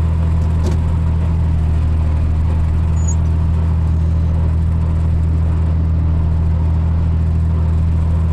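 Tractor engine running with its bush hog (rotary cutter) driven, a steady low drone that does not change. A single light click sounds about a second in.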